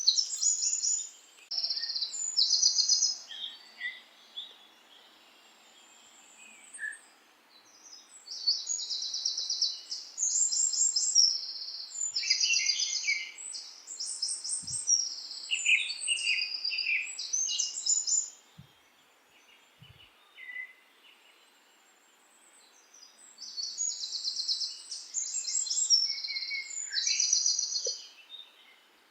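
Songbirds singing: quick, high, rattling trills and chirps in bouts of a few seconds, with lower phrases from a second bird mixed in. The song drops away to a faint hiss a few seconds in and again about two-thirds of the way through.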